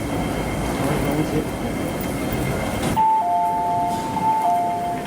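West Rail Line IKK electric train running, with a steady rumble. About three seconds in, a two-note electronic tone sounds for about two seconds, two pitches held together.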